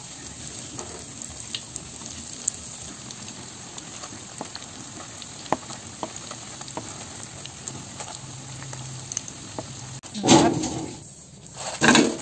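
Breaded risoles frying in hot oil in a pan: a steady sizzle with scattered small pops. Near the end there are two much louder bursts of noise, about two seconds apart.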